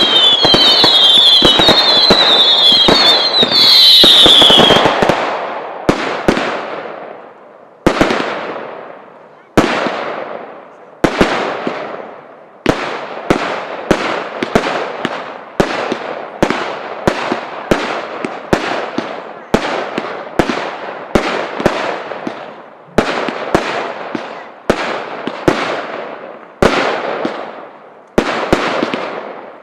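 Fireworks display: for the first few seconds, dense crackling with a warbling, screeching whistle. Then a steady run of sharp bangs about every three-quarters of a second, each followed by a long echoing fade.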